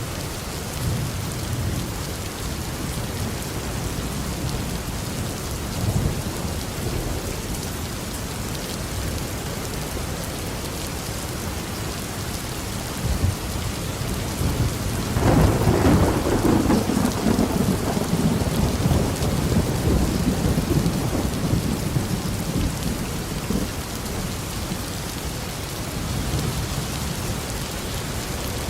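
Steady heavy rain with low distant thunder rumbling, then a loud thunderclap about halfway through that rolls on and fades over several seconds.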